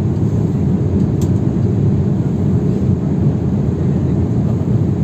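Steady, deep cabin noise of a passenger jet airliner, with engine and airflow noise heard from inside the cabin.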